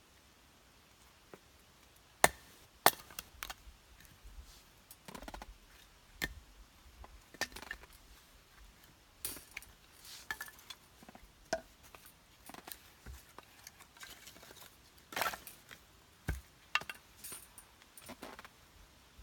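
Irregular sharp knocks and clinks of firewood being worked with a hand tool, with the two loudest strikes about two and three seconds in.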